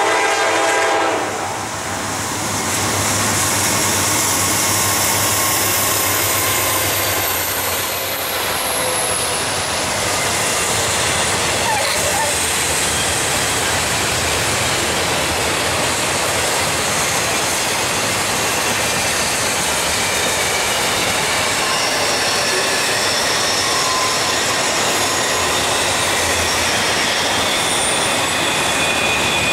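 Air horn of a Norfolk Southern intermodal freight train's GE D9-40CW locomotives sounding until about a second in, then the train passing close by: a loud steady rush of wheels on rail with clatter and faint high-pitched wheel squeal.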